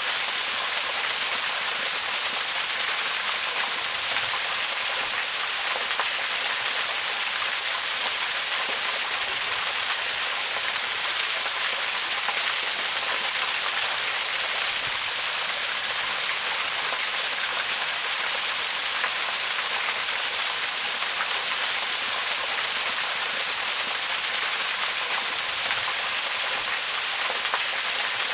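A waterfall's steady, even rush of falling water. It is mostly a bright hiss with little low rumble, and it does not change.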